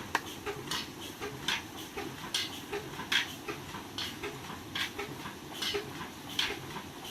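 Old 35 HP Ruston Hornsby diesel engine running slowly: a steady low chugging with a sharp knock a little more than once a second.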